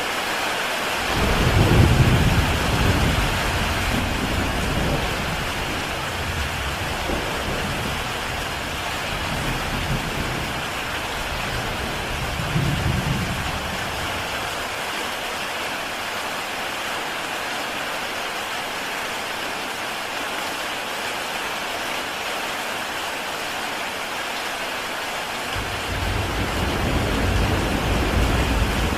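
Heavy rain on a tile roof, a steady dense hiss. Low rolling rumbles of thunder come over it: one starts about a second in and swells and fades over the next dozen seconds, and another builds near the end.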